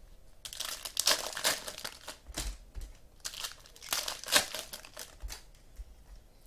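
Trading-card pack wrappers crinkling in hands as packs are opened, in irregular crackles that die down after about four seconds.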